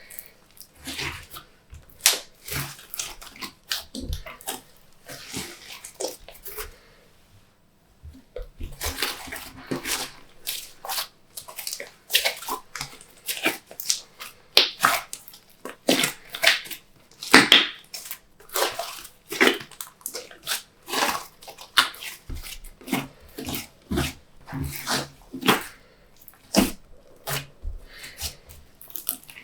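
Glossy slime being squeezed, folded and stretched by hand, giving a run of wet clicking and popping squelches several times a second, with a short pause about a third of the way in.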